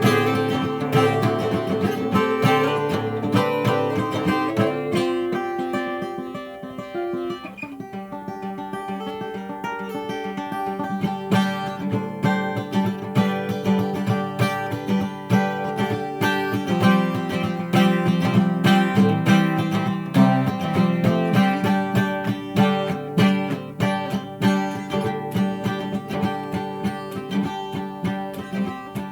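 Acoustic guitar playing a folk instrumental break, strummed chords with picked notes. It softens for a few seconds early on, then returns to firmer strumming.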